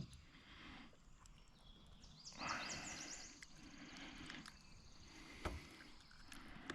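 Faint splashing and rustling of a kayak on the water, with a quick run of high chirps about two seconds in and a single sharp click near the end.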